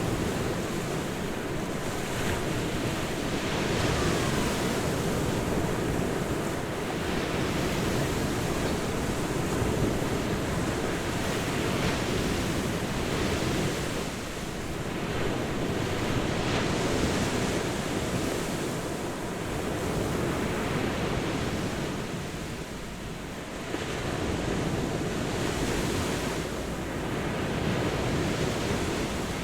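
Ocean surf washing onto a beach: a continuous rushing wash that swells and eases every few seconds, with softer lulls about halfway through and again a little later.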